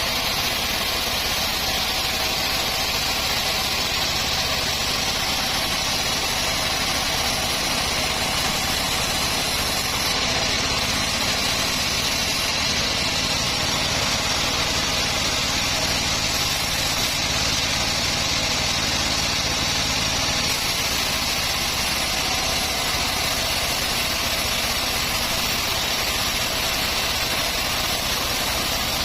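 Homemade band sawmill running steadily, a constant machine drone with a strong hiss, as it saws acacia wood.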